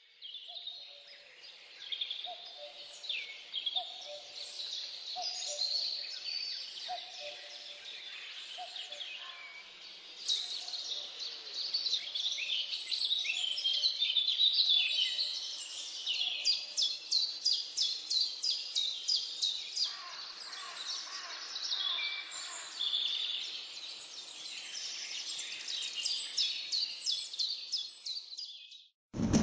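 Birdsong: several birds chirping and trilling, with a fast run of repeated chirps about halfway through. A lower note repeats about once a second through the first third, and the birdsong cuts off suddenly near the end.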